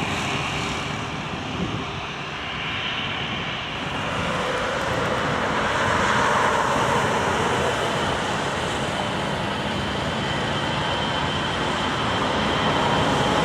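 Jet airliner engines: a steady rushing noise that grows louder about four seconds in.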